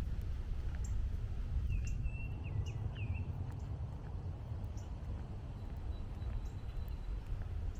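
Footsteps on a woodland trail at an even walking pace over a steady low rumble of distant traffic; a bird calls a short run of three or four slurred notes about two seconds in.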